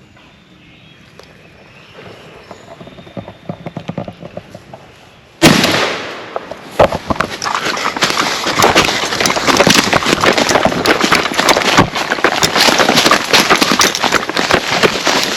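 Faint rustling, then a single loud gunshot about five seconds in, followed by a long stretch of loud, irregular crackling and thrashing as the shot turkey (a jake) flops on the ground.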